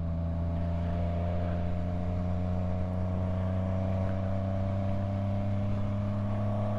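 Yamaha MT-09's three-cylinder engine running steadily under way, its note creeping slightly higher across the stretch.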